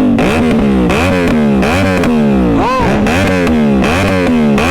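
CFMoto 450SR parallel-twin engine being blipped repeatedly, about three throttle stabs a second, each rev jumping up and falling away, the kind of throttle snapping meant to make the exhaust shoot flames.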